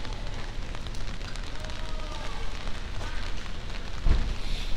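Light rain on a city street: a steady hiss of rain and wet pavement over a low rumble, with a single low thump about four seconds in.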